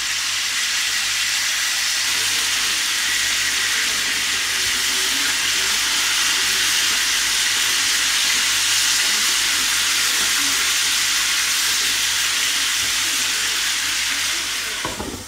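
Whole green peppers sizzling in a frying pan: a loud, steady hiss. Near the end it drops sharply with a low knock as the glass lid goes back on the pan.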